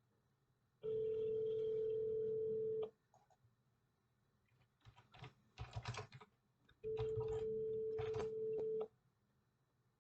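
Telephone ringback tone of an unanswered outgoing call: two steady rings of about two seconds each, four seconds apart. A short run of sharp clicks falls between the rings.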